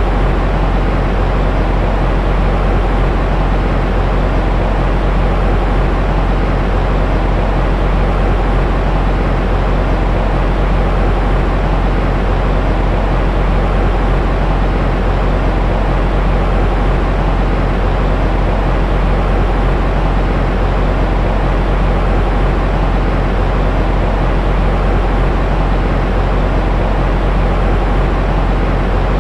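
Steady, unchanging white-noise sleep sound: an even rushing hiss weighted toward a deep rumble, with no breaks or changes.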